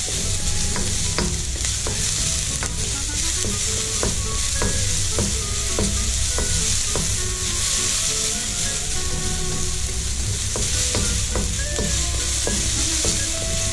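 Diced onion sizzling in oil in a wok, with a steady hiss. A spatula stirs it, scraping and knocking against the pan about once or twice a second.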